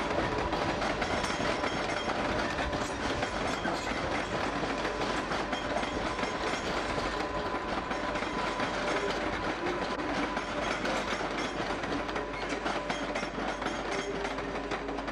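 British Rail passenger coaches rolling over the station pointwork, their wheels clicking and clattering over the rail joints and crossings in a steady, dense run.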